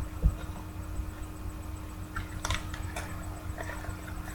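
Faint scattered clicks and light rustles of sports trading cards being handled, over a steady low hum.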